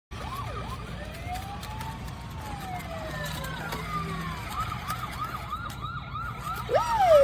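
Toy ride-on police car's electronic siren sounding, first in slow rising and falling wails, then switching about halfway through to a fast yelp repeating about four times a second.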